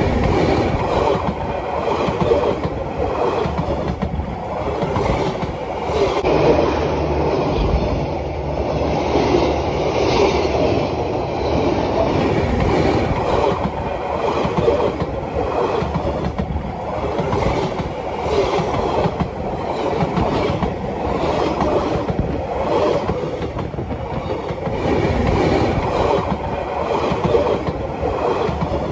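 Railway carriages rolling directly over the track, their steel wheels clattering in a steady, repeating rhythm.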